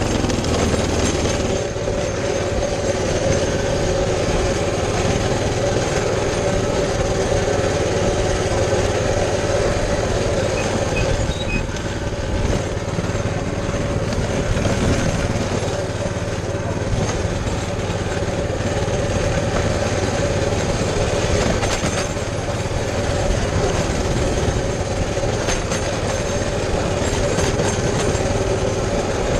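Baja 200cc bike's small single-cylinder engine running at a steady speed with a constant drone while riding over a rough grassy trail, mixed with rattling and jolting noise from the bike.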